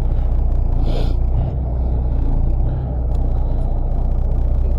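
Fishing boat's engine running with a steady low hum, and a short hiss about a second in.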